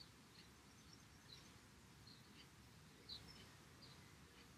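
Near silence: quiet room tone with faint bird chirps, short high cheeps scattered irregularly throughout.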